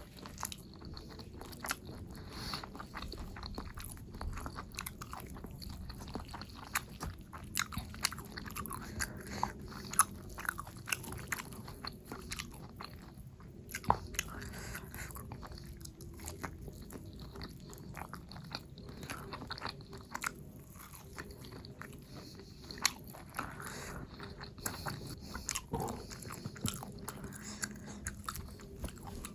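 Close-miked eating: biting and chewing with crisp crunches and irregular wet clicks of the mouth, a few louder bites standing out.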